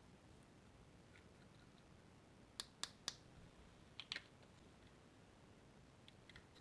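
Slime being worked by hand, giving small sharp clicks and pops against near silence: three clicks in quick succession a little before the middle, then two more about a second later.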